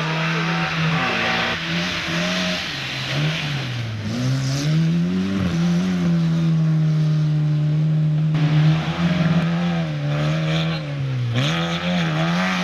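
Competition car engine running at high revs, its pitch held steady for long stretches and dipping then climbing back three times as the driver lifts off and shifts, over a steady hiss of tyres.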